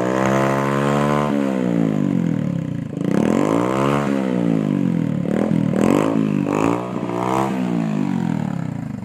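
Motorcycle engine revved through a newly fitted low-noise silencer. It gives two longer revs that rise and fall, then four quick throttle blips, and drops back toward idle near the end.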